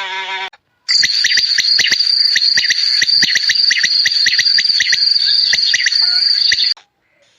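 An insect's high, steady trill, pulsing rapidly. It starts about a second in and cuts off abruptly near the end.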